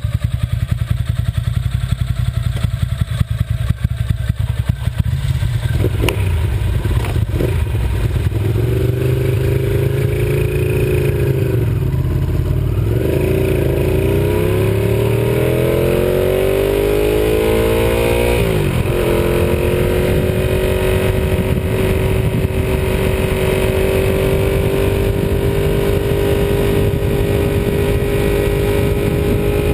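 Ducati 748R's 90-degree V-twin pulling away and accelerating, its pitch climbing through the gears with shifts about twelve and nineteen seconds in, then settling to a steady cruise.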